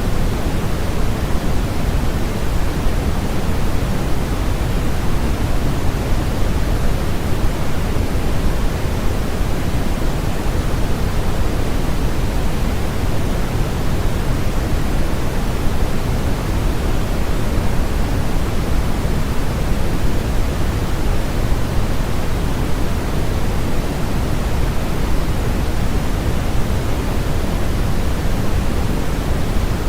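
Steady synthetic sleep noise, fuller in the lows and thinning toward the highs, holding an even level with no breaks or changes.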